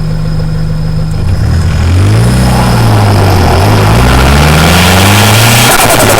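Nissan 200SX S14's turbocharged SR20DET engine, with a Garrett GT2871R turbo and open Apexi Power intake, heard from beside the air filter under the hood. It idles steadily, then is revved up and down from about two seconds in. As the revs drop near the end there is a brief rapid chatter, turbo flutter on lifting off the throttle.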